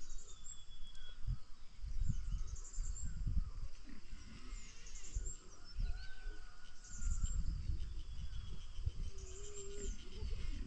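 Birds calling outdoors, short high chirping trills repeating every couple of seconds, over low rumbling thumps.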